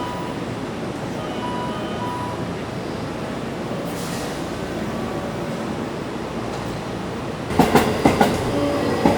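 Local train running with a steady rumble of wheels on rails, then a quick run of loud clacks near the end as the wheels pass over rail joints.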